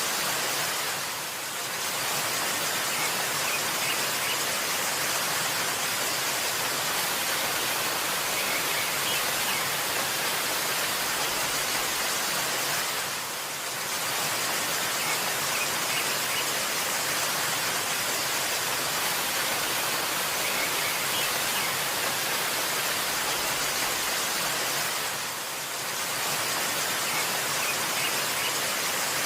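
Steady rushing of a waterfall, a full even wash of water noise that dips briefly about every twelve seconds. Faint short bird chirps come through now and then.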